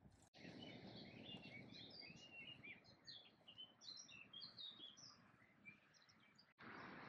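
Songbirds singing in many quick, short chirps over a faint steady background noise.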